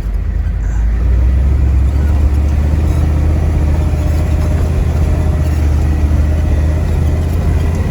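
Ford 7.3 IDI turbo diesel V8 in a 1973 F-250 working hard under load as the truck pushes through deep snow. The deep engine note grows louder about a second in and then holds steady.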